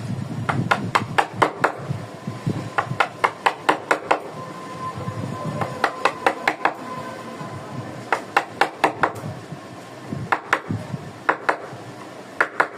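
Mallet striking a wood-carving chisel, sharp knocks at about three a second in runs with short pauses between, with background music underneath.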